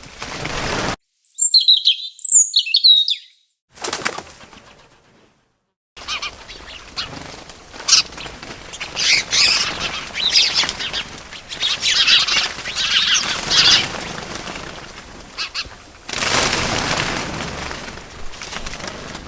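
Bird sounds: two short high chirps, a brief flutter, then several seconds of birds chirping busily over the whirr of flapping wings, with a louder rush of wingbeats near the end.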